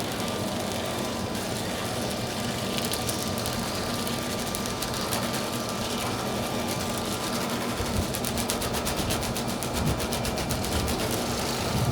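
Dryer-vent cleaning vacuum collector running steadily with a fixed hum while it pulls lint out of a heavily clogged vent line; a fast, fine rattle joins in over the last few seconds.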